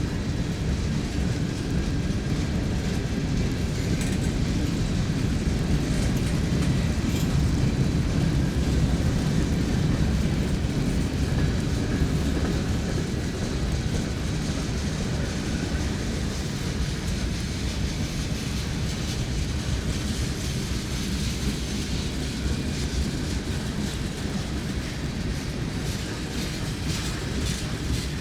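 A train rolling past: a steady low rumble of wheels on rail, slightly louder about a third of the way through, with a few faint sharp clicks.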